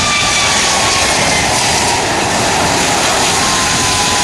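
Jet airliner's engines close by, a loud, steady rush of noise with thin whining tones that slowly fall in pitch.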